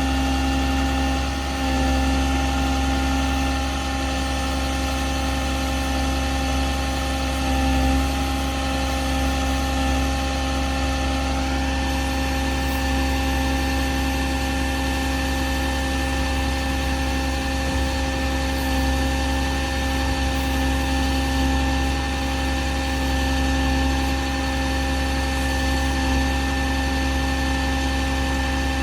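A 2009 International 4400 bucket truck's diesel engine idling steadily, with a small change in its higher tones about twelve seconds in.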